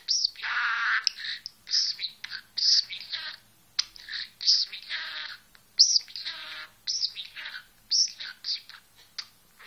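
Budgerigar chattering: a quick string of short, high chirps and warbles with brief gaps between them.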